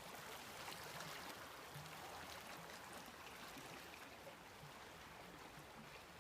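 Small brook babbling: a faint, steady rush and trickle of running water.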